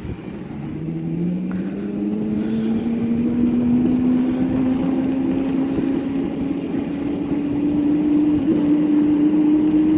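Mini dirt bike engine pulling away and gaining speed, its pitch climbing slowly and steadily and growing louder over the first few seconds.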